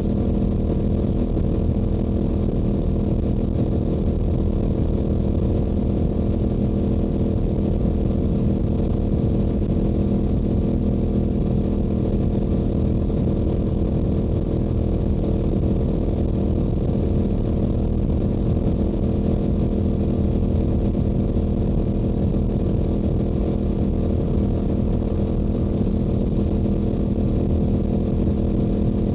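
Stock Yamaha YZF-R7's 689 cc parallel-twin engine and exhaust running steadily at constant highway cruising speed, with no change in revs, over a low rush of wind and road noise.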